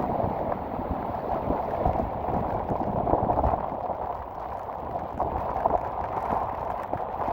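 Rough storm sea: waves surging and breaking in heavy surf, with strong wind gusting on the microphone. The noise swells about three seconds in.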